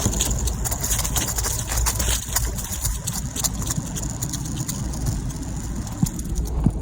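Longboard wheels rolling over a paved trail: a steady low rumble with many small ticks.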